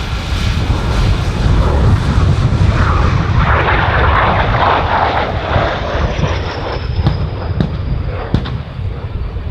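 CAC Avon Sabre jet fighter's Rolls-Royce Avon turbojet passing overhead in a display flypast, its noise building to a peak about four to five seconds in, then easing off with a high whine that slowly falls in pitch. A few sharp clicks sound near the end.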